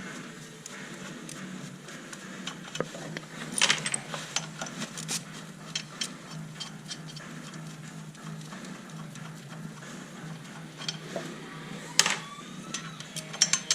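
Metal clinks and clicks of hand tools and parts during work on the car, with a louder clank about four seconds in and another near the end that rings briefly, over a steady low hum.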